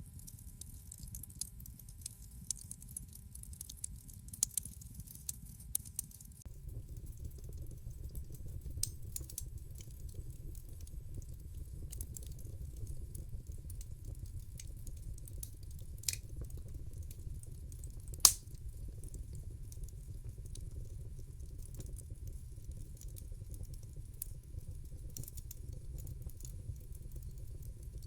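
Wood fire crackling in a fireplace: a steady low rumble of the flames with scattered sharp pops and snaps, one much louder pop about two-thirds of the way through. The rumble grows louder about a quarter of the way in.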